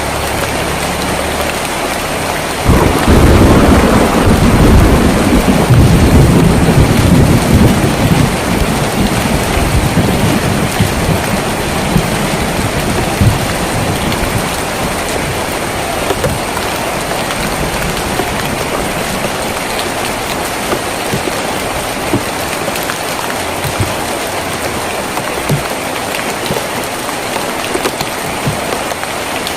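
Heavy rain on a tin roof, with a loud thunder rumble that breaks in about three seconds in and fades away over several seconds, followed by steady rain with scattered individual drips.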